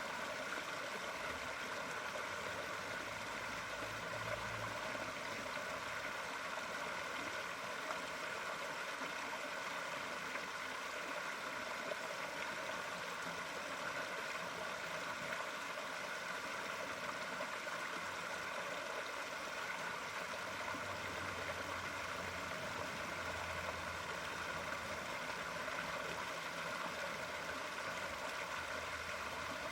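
Flowing water running steadily, an even rush and gurgle that does not change.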